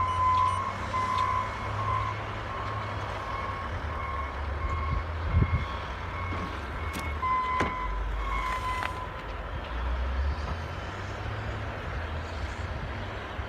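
Vehicle back-up alarm beeping repeatedly at a steady pace, stopping about nine seconds in, over the low rumble of vehicle traffic.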